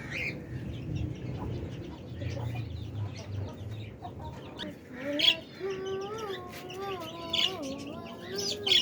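Pet parrots calling: sharp squawks about five seconds in and again near the end, and a long wavering call in the last three seconds.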